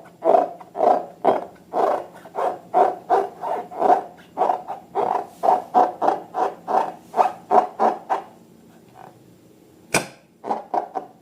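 Slime being squeezed and kneaded by hand: a steady run of squelches, about two or three a second, that stops about eight seconds in. A sharp click about ten seconds in is followed by a few more squelches.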